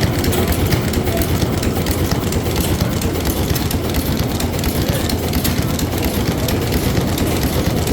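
Washington six-cylinder inline marine diesel engine running steadily.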